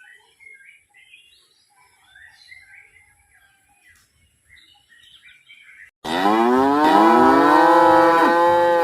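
Faint bird chirping, then about six seconds in a cow moos loudly in one long, downward-gliding call that starts and stops abruptly.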